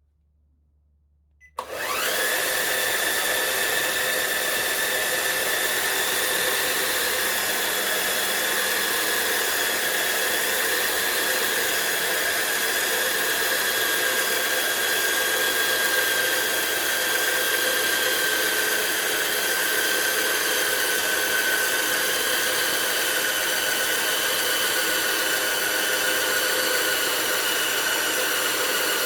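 CaDA M Power Functions-compatible electric motor switching on about a second and a half in, spinning up at once and then running with a steady high-pitched whine whose pitch sags slowly.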